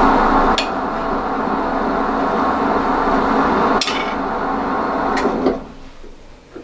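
Wood lathe running with a tool cutting across the end face of the spinning workpiece, with a few sharp clicks. The sound drops away abruptly about five and a half seconds in.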